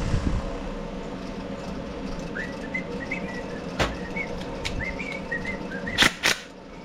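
A string of short, high whistled notes with little upward glides, and a few sharp clacks of parts or tools being handled on the bench, two of them close together near the end.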